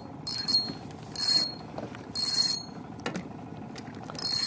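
Fishing reel ratcheting in four short clicking bursts, about a second apart.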